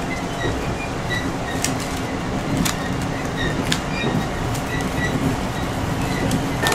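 Round-island tourist train running on the rails: a steady rolling rumble with scattered sharp clicks and brief high-pitched squeaks.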